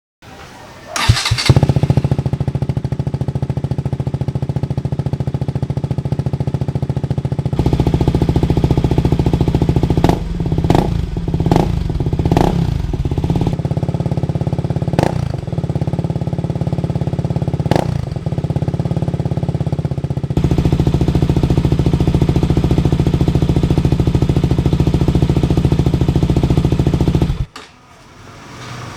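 KTM RC single-cylinder engine running through an R9 aftermarket exhaust. It starts about a second in and settles into an idle, is revved in a series of short throttle blips through the middle, then idles steadily again until it cuts off near the end.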